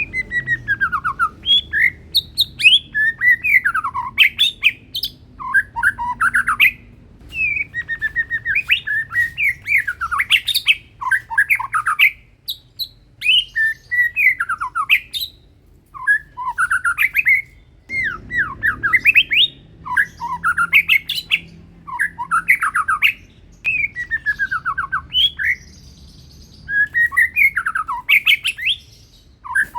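White-rumped shama (murai batu, Medan strain) singing steadily: fast, varied whistled phrases of sweeping notes and sharp clicks, repeated with short pauses between them.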